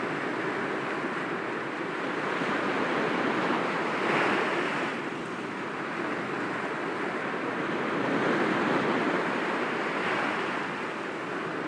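Sea waves breaking gently against rocks: a continuous wash of surf that swells and eases, with surges about a third of the way in and again past the middle.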